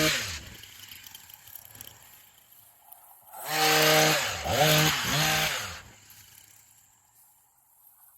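Stihl battery-powered pole saw running in short bursts: one trails off just after the start, and another runs from about three and a half to six seconds in, its pitch dipping and climbing back twice.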